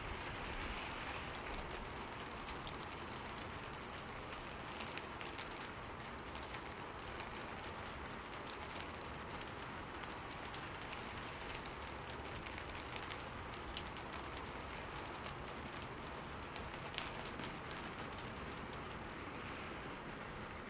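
Steady rainfall in a forest, a constant hiss with scattered sharper drops tapping on leaves; one louder drop hits about 17 seconds in.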